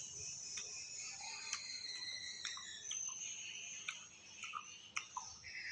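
A person chewing crisp unripe fruit close to the microphone: a series of short, sharp crunches at irregular intervals, over a steady high-pitched background drone.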